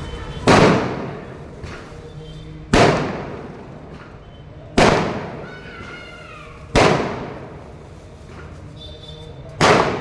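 Diwali firecrackers (patakhe) going off one after another: five loud bangs about two seconds apart, each with a short echoing tail.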